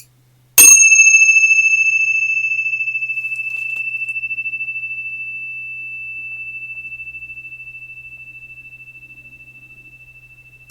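A meditation bell struck once about half a second in, giving a clear high ring with a slow pulsing wobble that fades gradually over about ten seconds and is still faintly sounding at the end.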